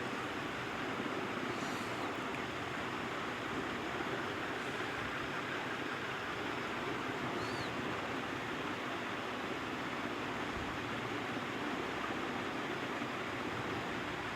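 Steady rushing background noise, even throughout, with a few faint short high chirps about two, five and seven and a half seconds in.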